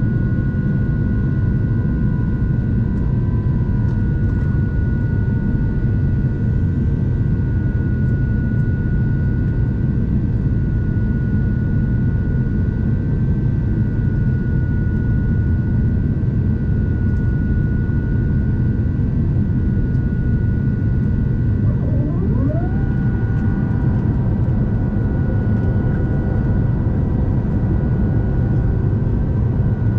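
Steady low rumble of engines and airflow, heard inside the cabin of an Airbus A350-900 in flight, with a steady high whine over it. About two-thirds of the way through, a tone sweeps up and down, then settles into a new steady hum.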